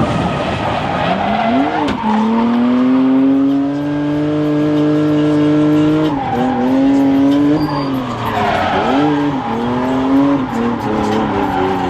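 Drift car engine held at high revs, dipping and climbing again about four times, with tyres squealing as the car slides.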